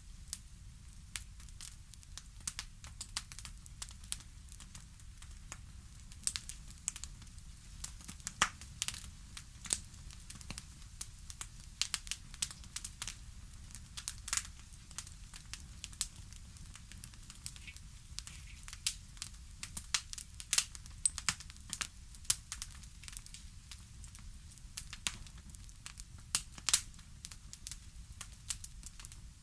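Fireplace fire crackling: irregular sharp pops and snaps over a low, steady rumble.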